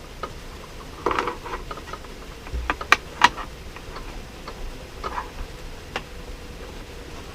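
Light scattered clicks and taps of plastic toy-car parts being handled and fitted during assembly, with a sharp pair of clicks about three seconds in.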